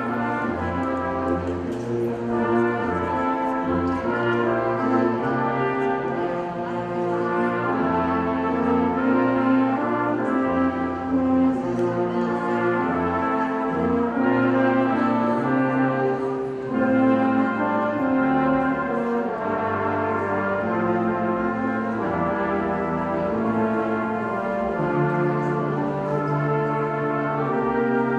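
A brass ensemble playing a piece in sustained, full chords, with low brass prominent.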